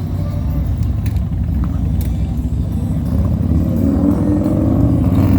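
Motorcycle engines running with a deep, steady rumble, growing louder toward the end.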